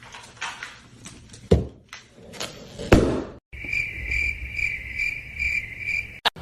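A few knocks and two sharp thumps, then a steady high chirping that pulses about twice a second, like an insect.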